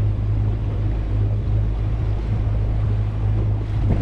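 Boat motor running at a steady low drone, with wind buffeting the microphone.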